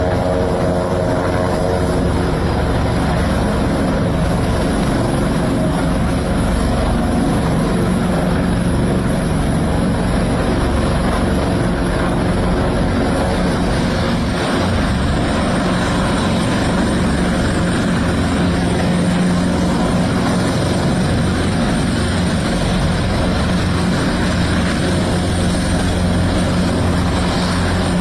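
Helicopter running with steady rotor and turbine noise and a constant low drone, holding level with no pauses.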